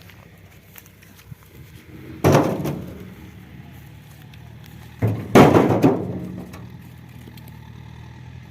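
Two loud thuds, about three seconds apart, each trailing off over about a second, over a low steady hum.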